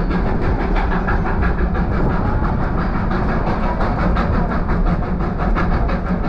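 Riding noise aboard a narrow-gauge steam excursion train: a steady rumble of wheels on the rails with rapid rattling clicks.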